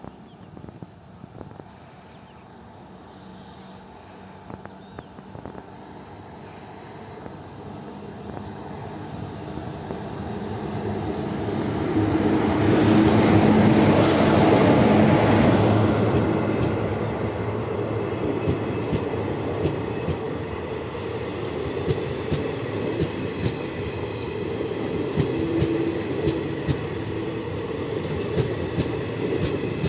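Passenger train hauled by a WAP-4 electric locomotive approaching and passing close by, growing louder to a peak about halfway through, then the coaches rolling past with a steady clickety-clack of wheels over rail joints.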